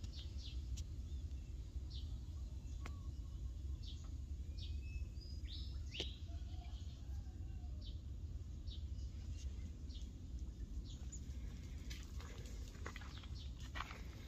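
Outdoor ambience: a steady low rumble, with small birds giving short, scattered chirps throughout.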